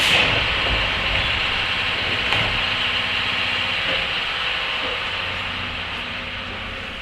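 Running sound heard inside a 103 series electric train motor car with MT55 traction motors: a steady rumble and hiss that grows gradually quieter as the train slows.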